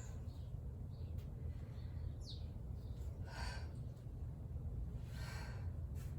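A woman breathing hard from exertion, with a quick, forceful breath every couple of seconds, over a steady low hum.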